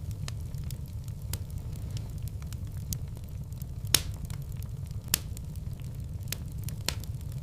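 Wood fire crackling in a fireplace: scattered sharp pops over a low steady rumble, with two louder pops about four and five seconds in.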